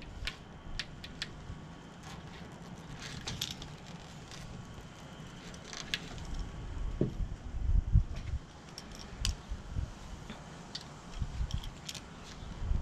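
Scattered light clicks and taps of hand work on a screen door, with a few low thumps a little past the middle.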